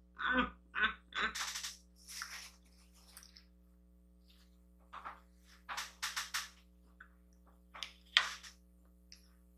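Close-up eating sounds from a mouthful of pasta: wet lip smacks and chewing in short, scattered bursts, with two brief hummed 'mm' sounds near the start.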